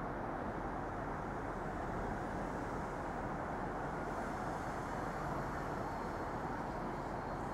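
Steady rumble of an NJ Transit commuter train rolling past on a far track, with a faint high whine about halfway through.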